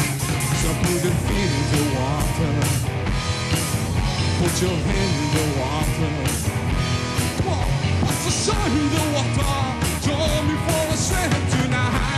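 Rock band playing a song live: a steady drum beat under bass and guitars, in a passage without sung words.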